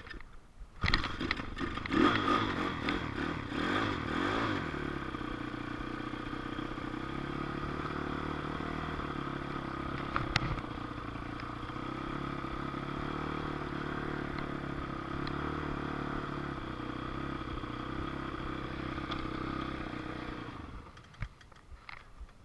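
Dirt bike engine starts about a second in and is revved up and down for a few seconds. It then settles into a steady idle and stops abruptly near the end.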